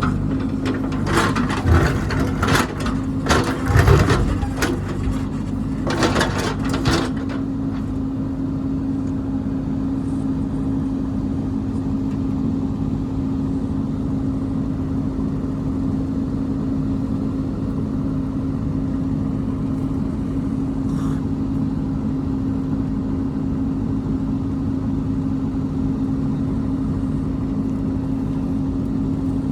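Heavy construction machine's engine running steadily, with a burst of clanks and knocks during the first seven seconds or so.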